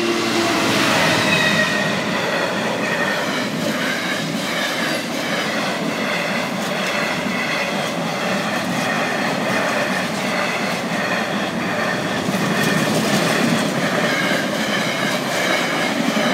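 Container freight train hauled by a Class 66 diesel locomotive passing close by: a steady loud rumble and clatter of wagon wheels on the rails. It is loudest in the first couple of seconds as the locomotive goes by.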